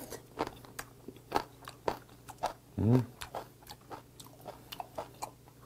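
Close-miked chewing of a mouthful of boiled hagfish with its skin on, dipped in chogochujang: a run of wet, irregular clicks and smacks. A short 'mm' from the eater comes about three seconds in.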